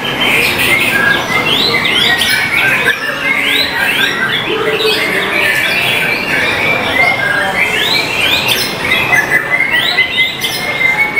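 Several white-rumped shamas singing at once in dense, overlapping rapid phrases of quick sweeping notes, with one high note held steadily near the end.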